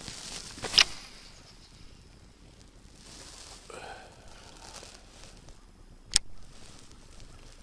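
A fishing cast: the rod swishes through the air about a second in, followed by quiet line and reel handling and a single sharp click near the end.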